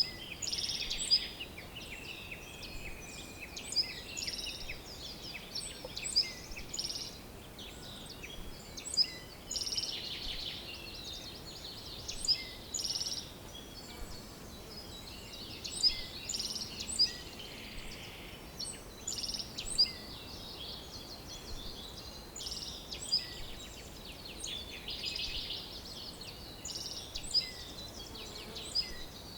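Several songbirds chirping and trilling together, with short sharp calls and rapid trills overlapping throughout, over a faint steady background hiss.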